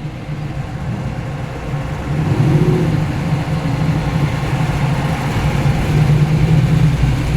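Muscle car engine running at low revs as the car rolls in, getting louder about two seconds in as it comes closer.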